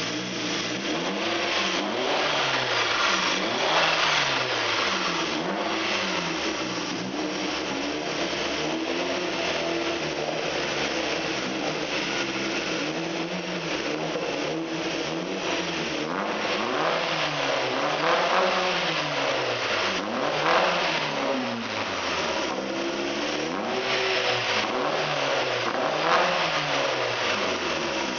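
Chevette's swapped-in C20LET 2.0-litre turbocharged four-cylinder engine being revved again and again, its pitch climbing and dropping every second or two.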